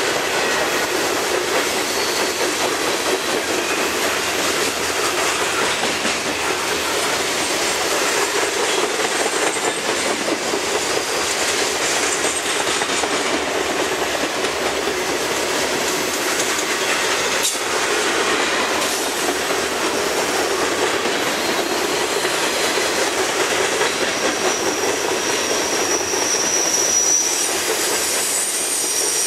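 Freight train of covered hopper cars rolling past close by: a steady din of steel wheels on rail. A thin, high wheel squeal comes in near the end.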